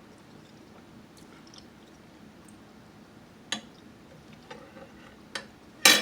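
Close-miked eating sounds: quiet chewing, broken by a few sharp mouth clicks, the loudest just before the end.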